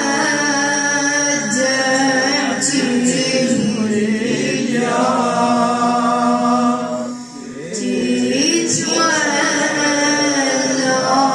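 A male voice sings a slow, drawn-out Shia elegy (latmiya) for Imam Husayn in long held, wavering notes. The singing pauses briefly about seven seconds in, then resumes.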